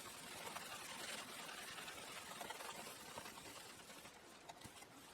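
Faint, steady scrubbing hiss of hand-buffing rubbing compound into a part of an antique radio.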